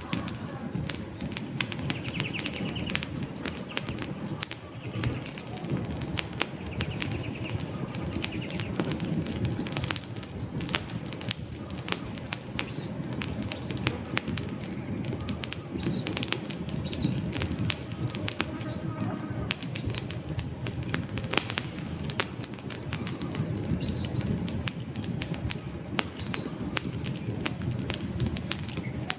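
Wood campfire crackling with frequent sharp pops and snaps over the low, steady rush of the flames. A few short, high bird chirps sound faintly in the background from about the middle on.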